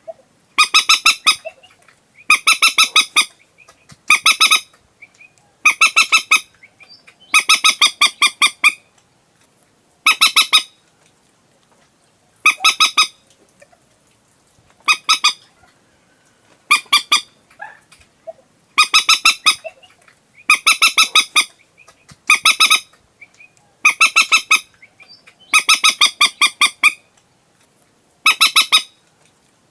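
Common moorhen calling: loud bursts of rapid, harsh clucking notes, each under a second or so long, repeated about every two seconds.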